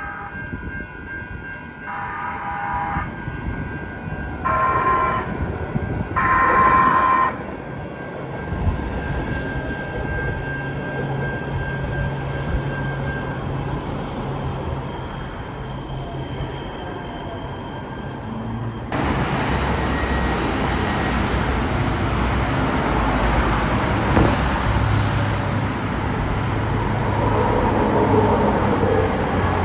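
Los Angeles Metro light rail train sounding its horn in three short blasts close together near the start, then the rumble of the train running. About two-thirds of the way through, the sound jumps to a louder, steadier train rumble with a low hum.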